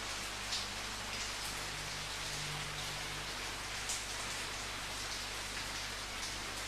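Steady rainfall, with individual drops spattering on a surface now and then and a couple of louder drop hits about half a second and four seconds in.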